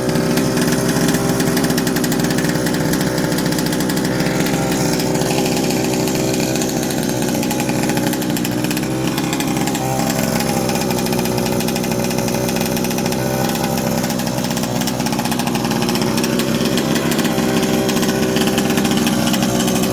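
36cc two-stroke gas engine of a 1/5-scale RC truck running steadily.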